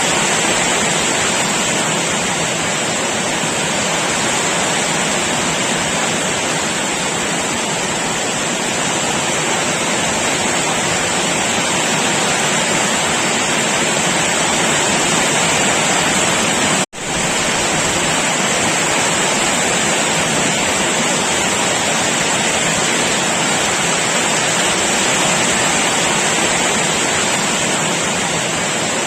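Heavy, steady downpour of rain, an even dense hiss that cuts out for an instant about 17 seconds in.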